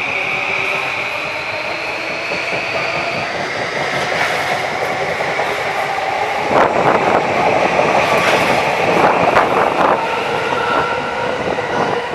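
JR electric commuter train moving at the station, its motors giving a high whine that slowly rises in pitch. Its wheels clatter over rail joints from about halfway through for some three seconds.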